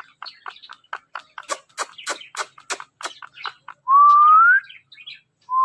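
A ringneck parrot making a quick run of short clicks, then a loud rising whistle about four seconds in, with a second rising whistle starting near the end.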